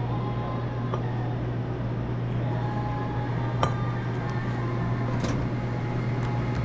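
A steady low hum with a few sharp light clicks and clinks, about two seconds apart, of cups and lids being handled at a self-serve coffee station.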